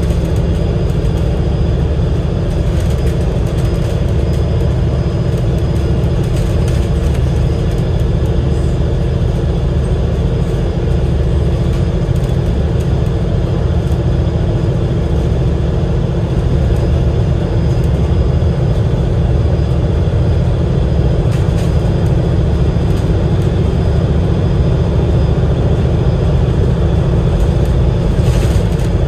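Cummins L9 inline-six diesel engine and Voith DIWA automatic gearbox of an Alexander Dennis Enviro500 MMC double-decker bus running under way, a steady low drone.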